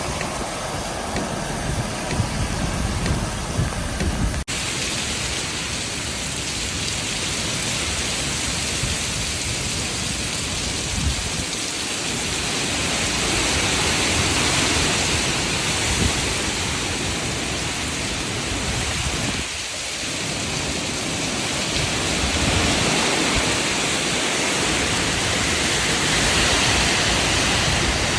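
Torrential wind-driven rain pounding a moving vehicle in a severe thunderstorm. It is a dense, steady roar of rain and wind, and its character shifts abruptly about four seconds in.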